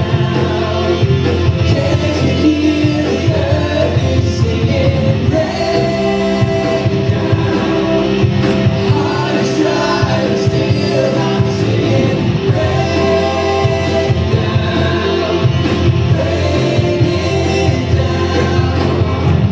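Church worship band playing a contemporary worship song, with voices singing over it at a steady, full level.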